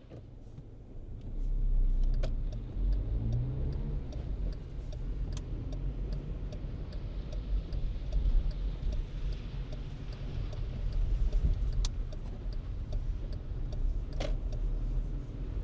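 Car driving through city streets: a low engine and road rumble that swells about a second and a half in, with the engine rising in pitch as it accelerates shortly after. A regular light ticking runs through much of it.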